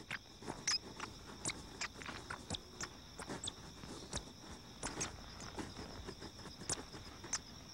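Crickets chirping steadily, with irregular small scratches and ticks of grasshopper mice scurrying and scuffling over dry dirt.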